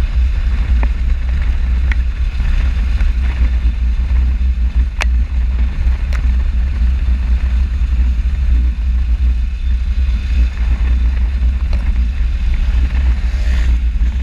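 Wind rushing over the microphone of a camera riding on a moving motorcycle: a loud, steady low rumble, with the bike's engine and road noise under it and a few faint clicks.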